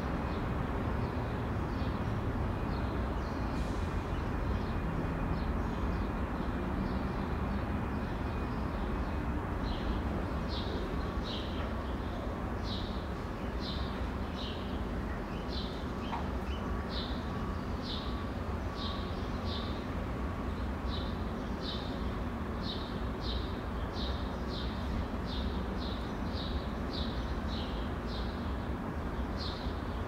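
Steady low background rumble with a bird chirping over it, short high notes about one and a half a second that become louder about a third of the way in.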